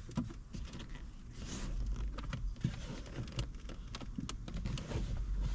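Scattered light clicks and creaks of a car's interior trim part being worked loose and slid out by hand, over a low steady rumble.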